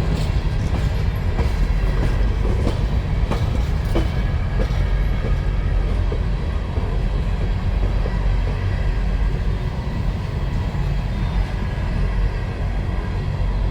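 A freight train of empty mine cars rolling past on the rails: a steady low rumble, with sharp clicks and clanks from the wheels and cars over roughly the first five seconds.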